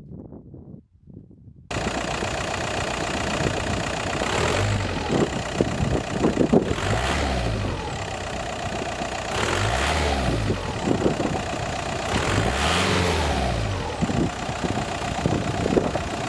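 Ford Galaxy 1.9 TDI diesel engine running and revving, its pitch rising and falling three times over a steady rush of noise. The sound comes in suddenly about two seconds in.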